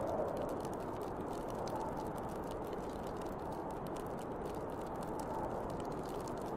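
Snowstorm wind blowing steadily, a little stronger near the start, with the faint sharp crackles and pops of a bonfire's burning wood over it.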